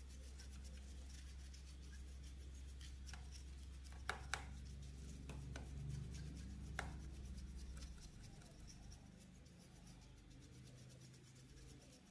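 Faint rubbing and a handful of small sharp clicks, two of them close together, over a low steady hum that stops about eight seconds in.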